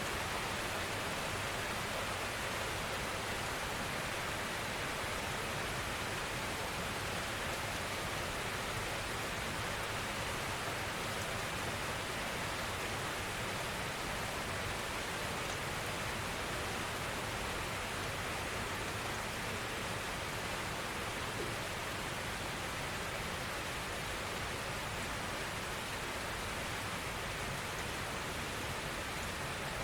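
Gentle rain falling steadily, an even hiss of rainfall that holds at one level throughout.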